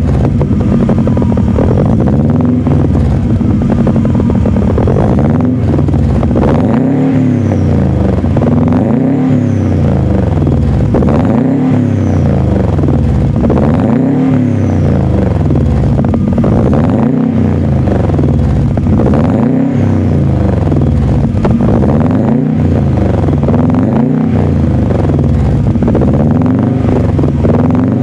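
Car engine heard at the exhaust, revved again and again: the pitch climbs and drops back in a rev about every two seconds, a dozen times, with a burbling exhaust note between revs.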